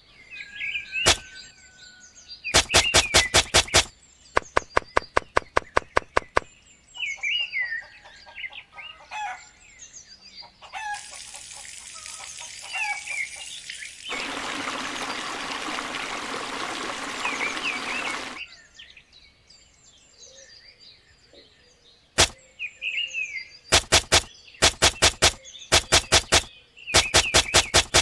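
Chickens clucking and small birds chirping, with several bursts of rapid clicking. Midway, water pours from a thin tube into a small plastic pond basin for about four seconds.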